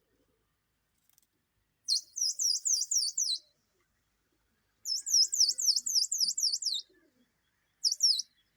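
A small songbird chirping in quick, high, repeated notes, in three bursts: two longer runs and a short one near the end.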